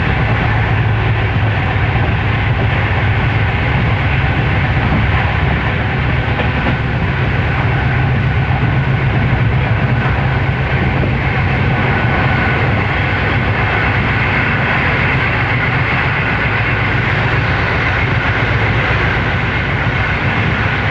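Train running steadily along the track: a loud, even rumble that holds unchanged throughout.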